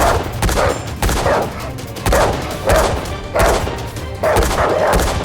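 A series of about eight sharp bangs or hits, one every half second to second, over background music.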